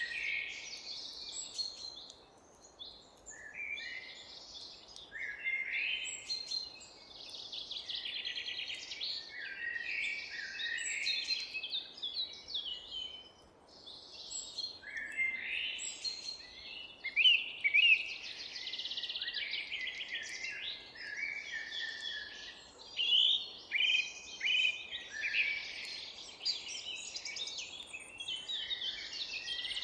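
Several songbirds singing and chirping at once, a near-continuous chorus of trills and short calls, over a faint steady background hiss.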